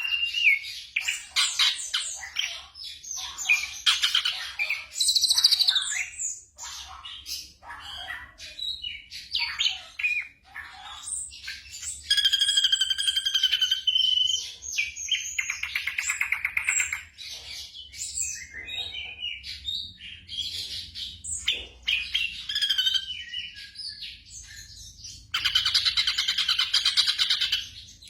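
Black drongo singing a varied, continuous string of whistles, harsh squawky notes and fast buzzing trills, broken by short pauses. The loudest trilled phrases come about twelve seconds in and near the end.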